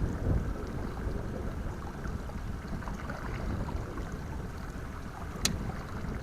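Wind buffeting the microphone as a steady low rumble, with one sharp click about five and a half seconds in.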